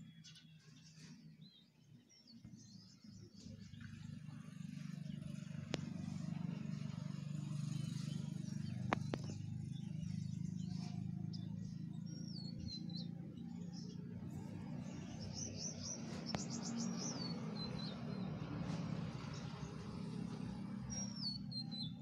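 Birds chirping: scattered high whistled notes, with a quick run of about ten notes past the middle and a falling phrase near the end. Underneath is a steady low hum that swells in a few seconds in.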